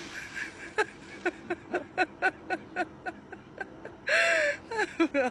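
A person giggling in a quick run of short bursts, about four a second, that breaks into a louder, breathier squealing laugh about four seconds in.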